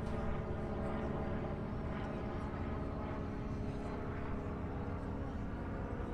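Steady engine drone holding one even pitch, from a passing aircraft or boat.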